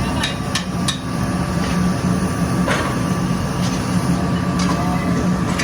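Workshop machinery running with a steady low hum, with sharp metal-on-metal knocks: three quick ones near the start, then single knocks about once a second.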